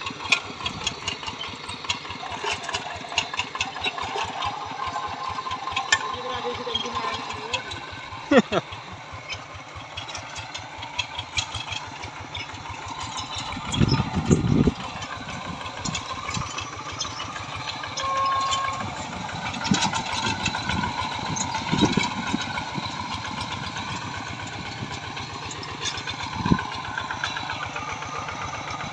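Tractor engines running with a steady, rapid beat, and a few louder knocks, the biggest about halfway through.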